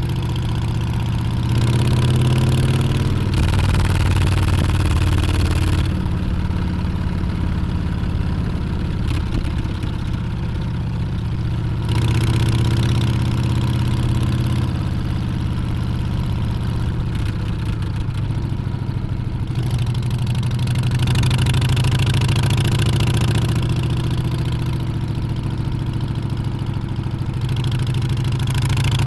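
Harley-Davidson Street Bob's V-twin engine running under way, its pitch rising as it accelerates about a second in, then swelling and easing several times with the throttle.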